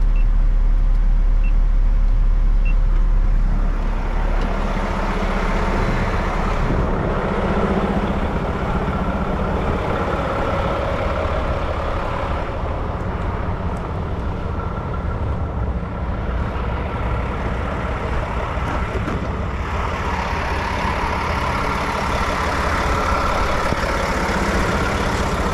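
Heavy stone slinger truck's diesel engine running steadily, with a deep hum that changes to a busier, harsher running sound with a faint whine about three and a half seconds in. A faint tick repeats about every second and a half at the start.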